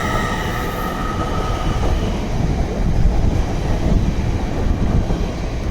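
Train running through the station: a high wheel squeal fades out in the first second or so, then a low rumble grows louder.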